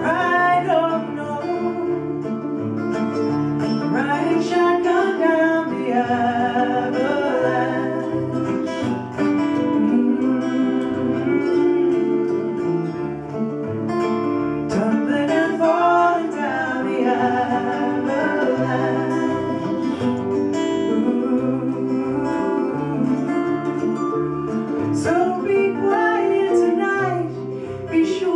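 Live performance of a song: acoustic guitar accompanying singing.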